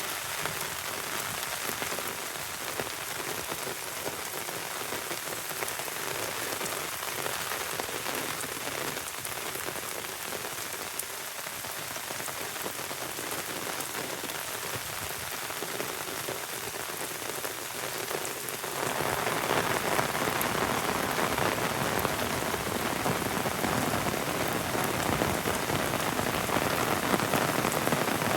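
Heavy rain falling steadily, a dense even hiss of drops, which gets suddenly louder and fuller about two-thirds of the way through and stays so.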